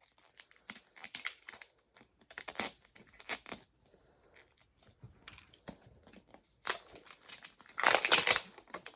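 Plastic toy-capsule packaging being handled and unwrapped: crinkling and rustling in irregular bursts, with small clicks, loudest near the end.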